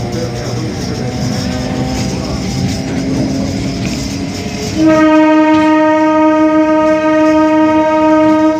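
Indian train running with a steady rumble, then about five seconds in a train horn sounds one long, steady, single-pitched blast of nearly four seconds, much louder than the running noise, which cuts off suddenly.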